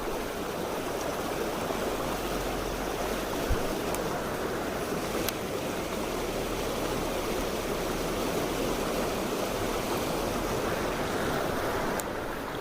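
Mountain stream water rushing steadily over rocks, with a few faint brief clicks.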